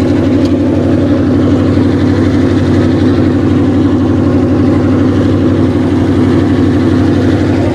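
A car engine idling steadily and loudly, with a fast, even pulse.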